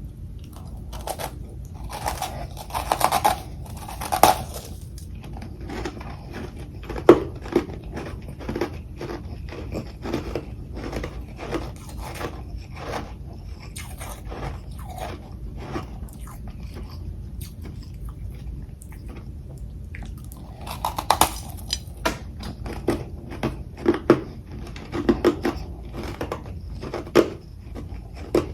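Close-miked crunching and chewing of frozen humidifier frost and crushed ice: a few loud crunchy bites near the start and again about two-thirds of the way through, with steady quicker chewing strokes between.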